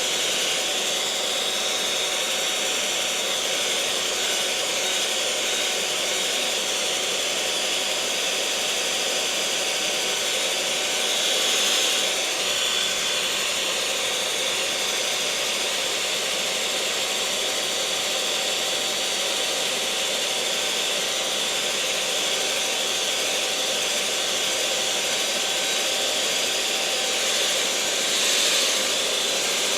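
Electric mixer running steadily: a continuous high motor whir with a faint steady tone, swelling slightly twice.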